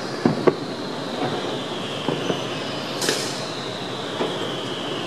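Fireworks display: a few sharp bangs from bursting shells, the loudest near the start, under long whistles that slowly fall in pitch. A new whistle starts sharply about three seconds in.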